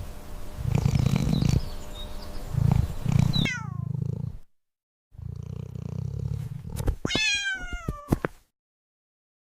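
A domestic cat purring in rhythmic rumbles, broken by two meows that fall in pitch, one about three and a half seconds in and one about seven seconds in. The sound stops abruptly about a second before the end.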